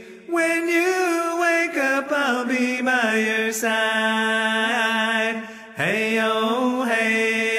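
A voice singing a slow lullaby in long, held notes, with a short pause about six seconds in.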